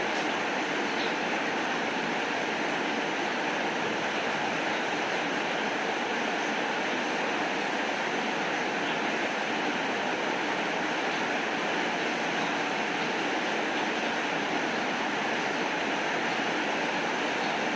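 Steady rain falling, an even unbroken hiss with no distinct drops or knocks standing out.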